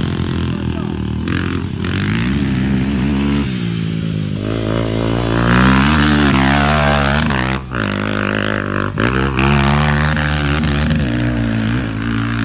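Dirt bike engine on a motocross track, revving up and down as the rider works the throttle and shifts. The pitch rises and falls repeatedly, with short drops in between.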